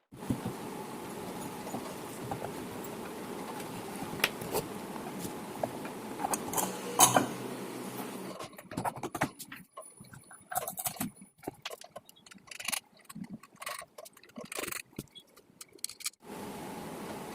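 Homemade water pump driven by a table fan motor, running with water pouring and splashing. About eight seconds in the steady sound stops and gives way to irregular splashes and drips, then starts again near the end.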